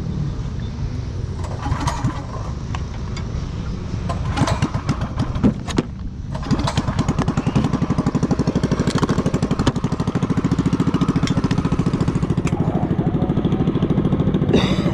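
A few clicks and knocks, then from about six seconds in a motorcycle engine running steadily with a rapid, even beat.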